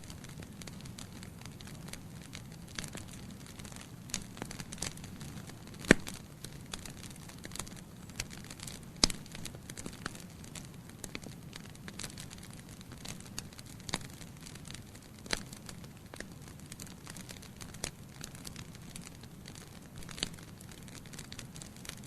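Wood fire of burning logs crackling in a fireplace: a steady low hiss of the flames with frequent irregular sharp pops and snaps, the loudest about 6 and 9 seconds in.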